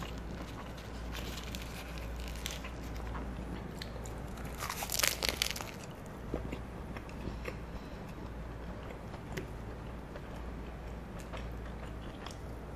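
A person chewing and biting crispy food close to the microphone, with a burst of loud crunching about five seconds in.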